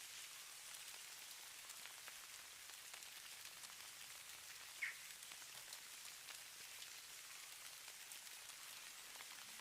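Falling snow or fine precipitation pattering steadily as a soft, faint hiss full of tiny ticks. A single short high chirp stands out about five seconds in.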